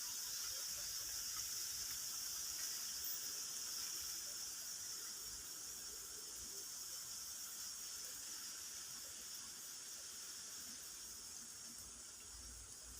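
Steady high-pitched hiss of an insect chorus, easing slightly toward the end.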